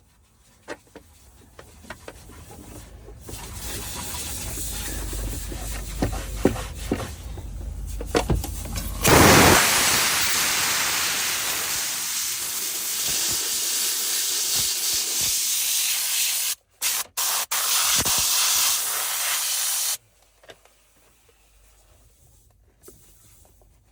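Steady hiss of a pressurised spray, such as a washer or air jet used in car detailing. It builds up over the first few seconds, gets suddenly louder about nine seconds in, breaks off briefly a few times near the middle and stops abruptly near the end, with a few light knocks before it.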